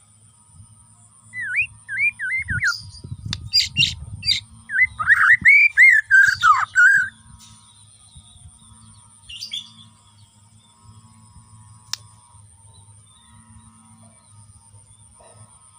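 White-rumped shama (Bornean murai batu) singing a loud burst of quick whistled phrases, sliding notes mixed with sharp high chips, lasting about six seconds. One short call follows a few seconds later, and there is a single click near the end. A faint steady high whine and low hum lie underneath.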